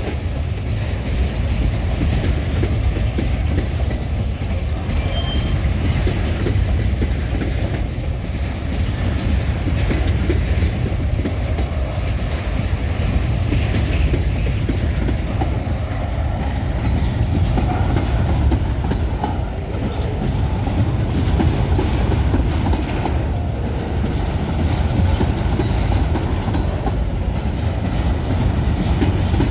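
Empty freight train rolling past, a steady low rumble with its wheels clicking over the rail joints.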